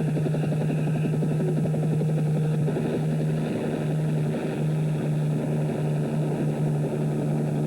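Helicopter running steadily: a constant engine hum under a fast, even chop of the rotor blades.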